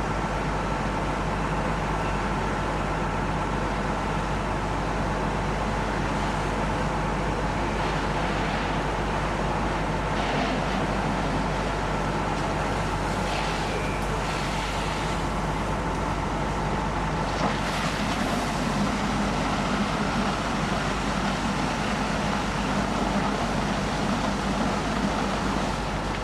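Fire trucks' engines running steadily: a constant drone with a faint steady whine, and a few brief faint noises over it.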